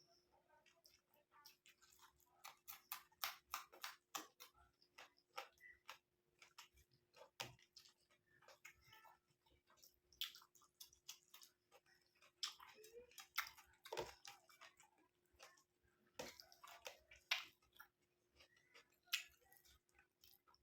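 Close-miked chewing of curry and rice, with irregular wet mouth clicks and smacks.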